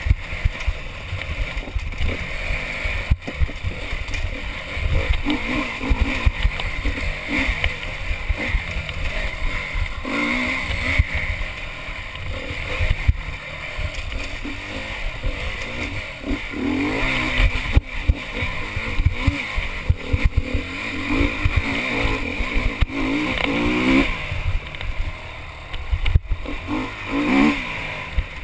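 Honda enduro motorcycle engine revving up and down hard as it is ridden along a rough forest trail, heard from the rider's helmet. Under it runs a constant low rumble, with a few sharp knocks.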